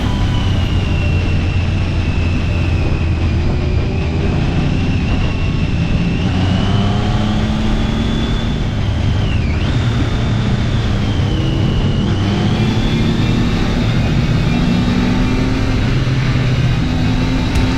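BMW R nineT's boxer twin running through an HP Corse GP-07 slip-on exhaust on the move, its pitch rising and falling gently with the throttle. A steady high whine runs above the engine note, dipping briefly about halfway through.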